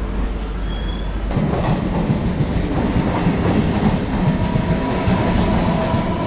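Electric suburban train running on the rails, with steady rumble and wheel clatter. The sound changes abruptly a little over a second in. A faint thin squeal from the wheels comes in from about three and a half seconds, as the train nears a station.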